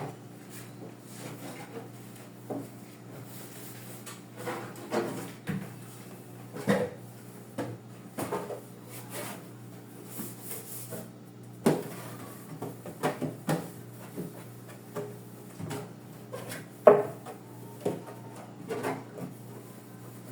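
Irregular knocks, clacks and scrapes of refrigerator shelves, drawers and food containers being set into a refrigerator, over the refrigerator's steady low hum.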